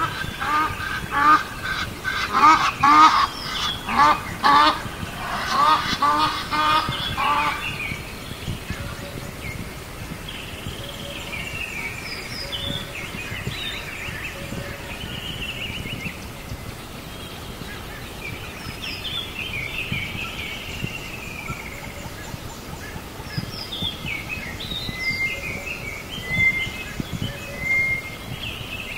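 Birds calling: a bout of loud, repeated calls, several a second, for about the first seven seconds, then scattered, quieter chirps and whistles.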